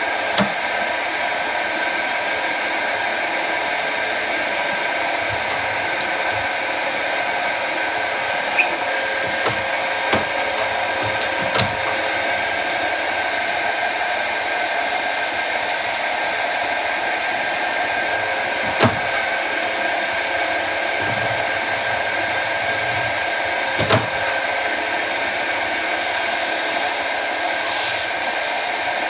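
Jet TL-25 lathe running steadily with a whirring, many-toned hum, broken by a few short clicks; a high hiss joins in near the end.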